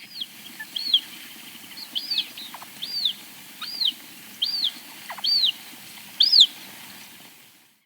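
Western marsh harrier calling: a series of about eight high, thin notes, each rising then falling in pitch, spaced roughly a second apart over faint background hiss.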